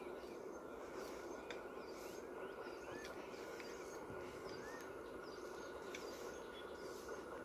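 Faint open-country ambience: a bird repeating short chirping calls about once or twice a second over a steady low background hum.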